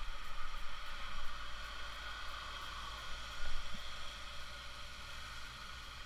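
Steady road noise of a moving vehicle: a constant low rumble under a hiss.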